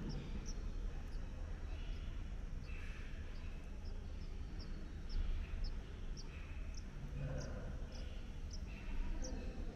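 Outdoor natural ambience: a short, high chirp repeats about twice a second, with fainter calls now and then over a steady low rumble.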